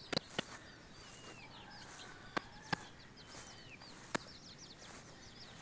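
Baby chicks peeping: many short, high chirps, thickest in the middle of the stretch. Sharp clicks cut in a few times, near the start, twice about halfway, and near the end.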